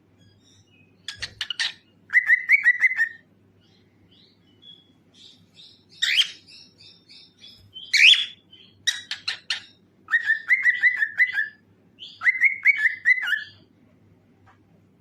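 Pet cockatiel singing in short repeated phrases, each a quick run of sharp chirps, several of them ending in a fast rattling trill, with short pauses between phrases.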